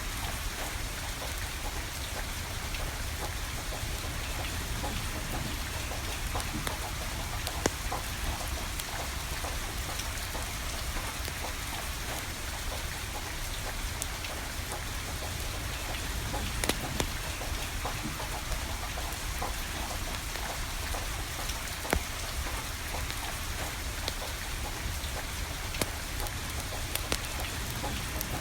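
Steady rain falling, with a wood fire burning and giving off scattered sharp crackles and pops, a few louder than the rest.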